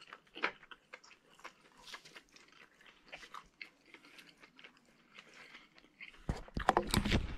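Close-up chewing of cooked meat, with small clicks of a fork. About six seconds in, a louder rubbing and knocking as a hand grabs and moves the camera.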